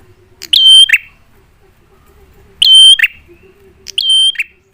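Prenjak (prinia) calls used as a lure: three loud calls about a second and a half apart, each a short, steady, shrill note that ends in a quick lower note.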